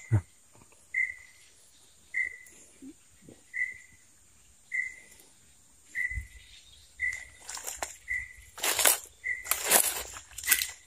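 A bird calls one short, high note over and over, about once a second. From about eight seconds in, loud rustling bursts in dry leaf litter come in over it.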